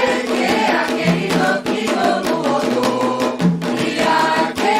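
Singers chanting a Candomblé song for Xangô over a steady pattern of hand-drum beats.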